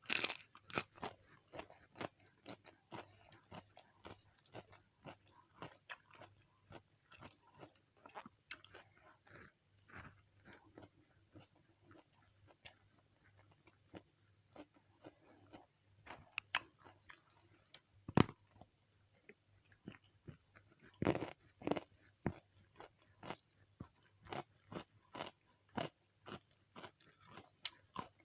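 Close-miked ASMR eating of fried chicken with raw vegetables: irregular bites and chewing with many crisp crunches, a few louder about two-thirds of the way through.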